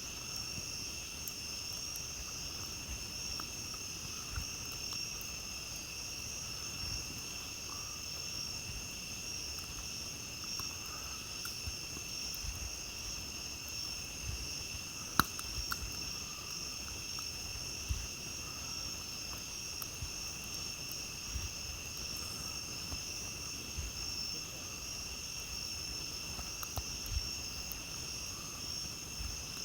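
Steady night chorus of crickets, a continuous high trilling, with scattered soft crackles from a campfire and one sharp pop about halfway through.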